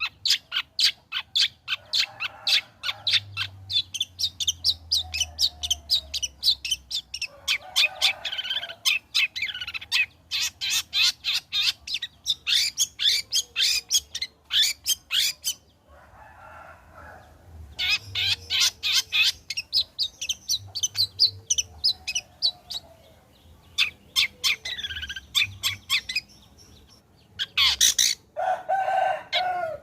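Long-tailed shrike (cendet) singing in fast runs of sharp, high chattering notes, several a second, with short breaks about halfway and near the end, and a harsher, lower call near the end.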